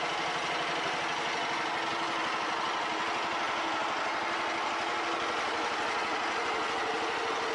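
Homemade garden tractor's engine idling steadily, with an even run of firing pulses.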